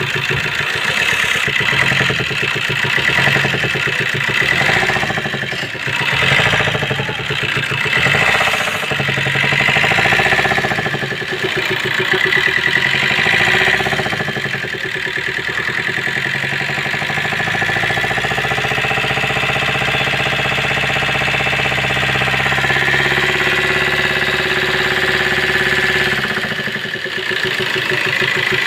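Maruti Suzuki S-Cross 1.3-litre diesel engine running with a rapid, rhythmic 'phat phat phat' clatter from the top end, the sign of a broken rocker arm. Engine speed rises and falls a few times in the first half, then settles to a steady run.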